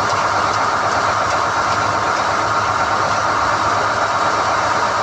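SDH-1600 core drilling rig running steadily as NQ drill rods are hoisted out of the hole, a loud, even mechanical noise.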